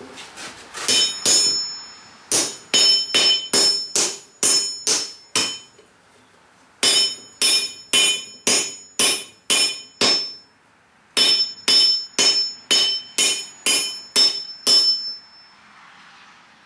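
Blacksmith's hand hammer striking hot steel on an anvil in three runs of about ten blows each, roughly two to three a second, with short pauses between. Each blow rings. The steel is the head of an old ball-peen hammer being forged into a cupped hide scraper.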